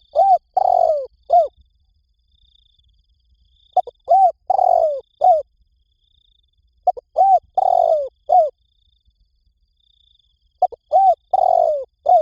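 Spotted dove cooing: four repeated song phrases about three and a half seconds apart, each a quick run of four or five soft coos with a longer drawn-out note in the middle.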